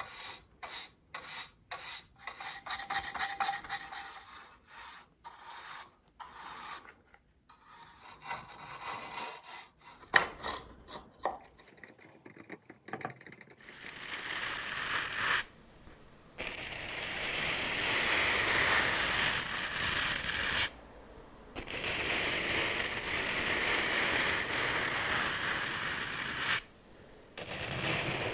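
Hands working object surfaces for ASMR: a run of quick, rhythmic strokes or taps about two a second, then scattered lighter touches, then from about halfway a steady scratching and rubbing that stops briefly three times.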